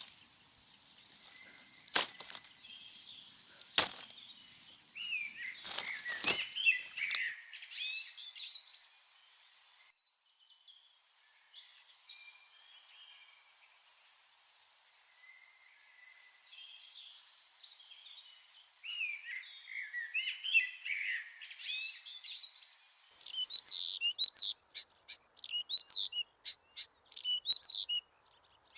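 Small birds chirping and singing, with a few sharp knocks in the first several seconds. Near the end comes a run of quick repeated chirps.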